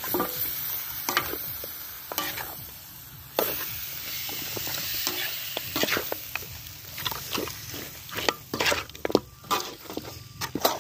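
Pork pieces sizzling in oil in a metal wok while a metal ladle stirs and scrapes them, with repeated clinks of the ladle against the pan that come thicker in the second half.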